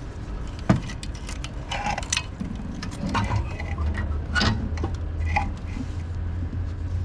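Scattered metallic clinks and knocks of tools and parts being handled during engine work, with a steady low hum coming in about three seconds in.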